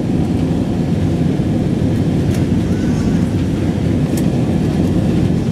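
Steady low rumble of an Airbus A321's engines and airflow heard inside the passenger cabin in flight or on the takeoff run.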